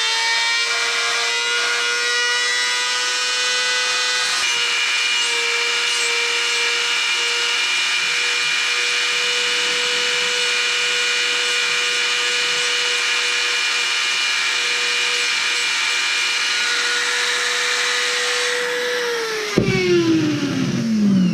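Small high-speed rotary tool running at a steady high whine while it is used lightly to clean an old piece of tab strip off a LiPo cell, not cutting. Near the end it is switched off and winds down, its pitch falling.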